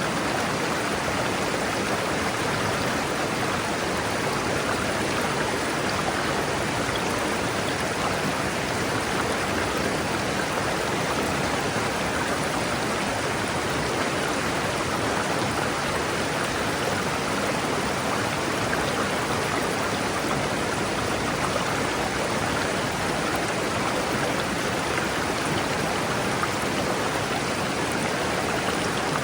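River water rushing steadily over rocks: an even, unbroken rush with no other sounds standing out.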